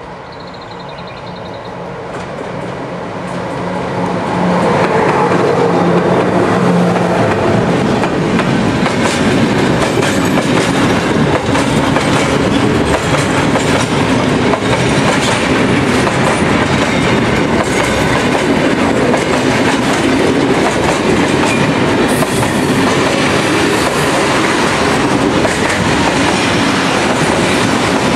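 An electric locomotive approaches, getting louder over the first few seconds with a steady low hum. A long freight train of open wagons then rolls past close by, its wheels clicking over the rail joints.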